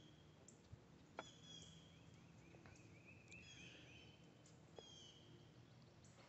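Near silence with faint bird calls: a few short, high chirps with falling notes about a second, three seconds and five seconds in.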